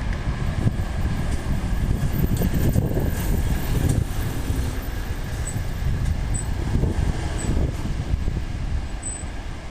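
Typhoon wind buffeting the microphone: a heavy, gusting low rumble that rises and falls.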